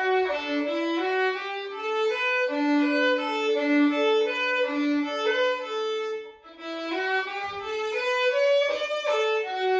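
Background music: a slow melody of held notes on a violin, with a brief break about six seconds in.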